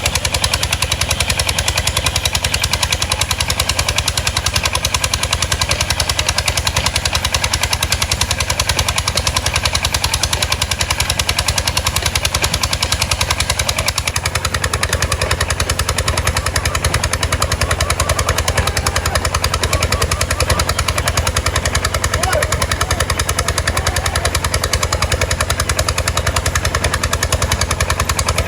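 Boat engine running steadily with a fast, even chug of exhaust pulses.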